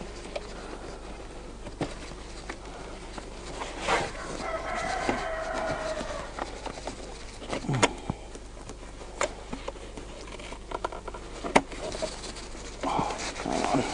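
A chicken gives one long pitched call about four and a half seconds in, over a low background. A few sharp wooden knocks follow as the parts of a Langstroth hive are set back in place.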